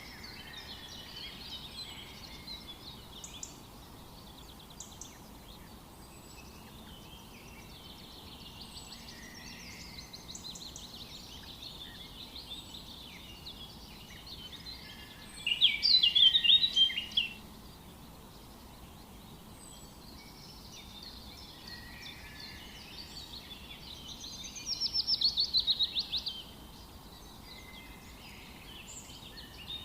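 Forest birds chirping and calling throughout, with two louder bursts of rapid, repeated song notes, one about halfway through and one near the end, over a faint steady background hiss.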